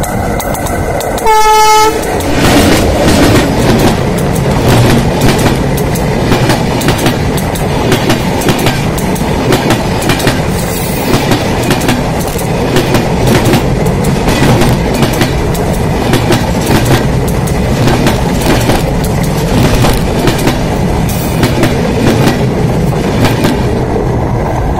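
A train horn gives a short blast about a second in. Then the train rolls directly over the microphone, heard from between the rails for over twenty seconds: a loud steady rumble with rapid wheel clacks over the rail joints, fading near the end as the last car clears.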